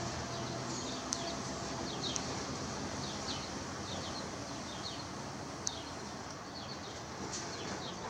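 Small songbirds chirping in short, high notes that fall in pitch, several scattered through each second or two, over a steady background hiss.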